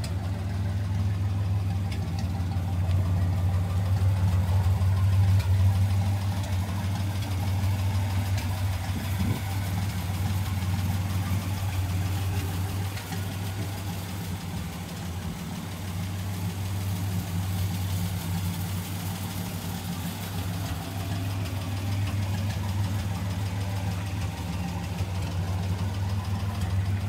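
The truck's 302 V8 engine idling steadily.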